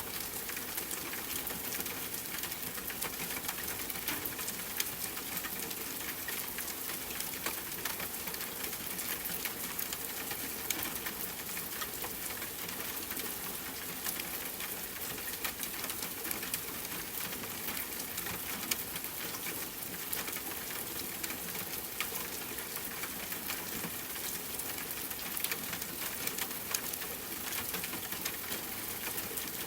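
Rain falling steadily on a tent, with a campfire crackling in small scattered pops.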